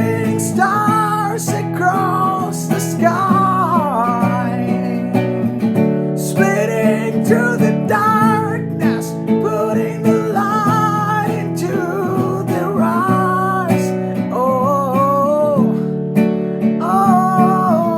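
Strummed acoustic guitar with a voice singing wordless held, wavering notes over it.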